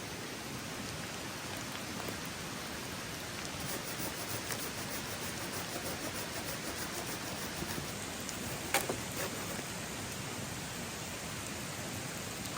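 Steady rain falling on a forest, with many small drop impacts ticking through the middle and one sharp knock about nine seconds in.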